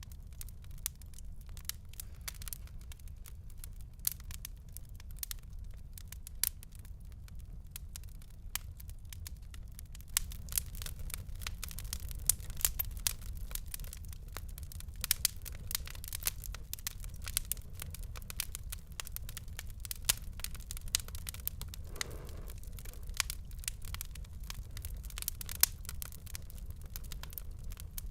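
Wood fire crackling: many sharp pops and crackles over a steady low rumble of burning, the crackles coming more often from about ten seconds in.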